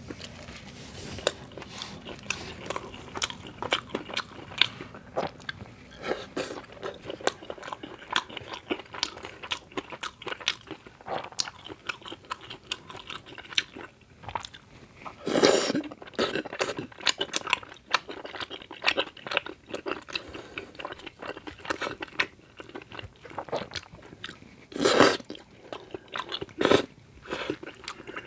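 Close-miked chewing and biting of tteokbokki rice cakes and crunchy fried snacks: a steady run of small wet mouth clicks and crunches, with two louder, longer bursts about halfway through and near the end.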